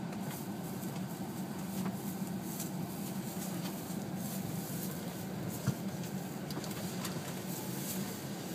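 Vehicle engine idling steadily, with a single short knock about five and a half seconds in.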